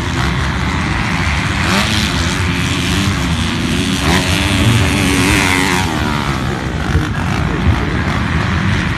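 Motocross dirt bike engines revving as bikes ride the track, their pitch rising and falling over a few seconds in the middle.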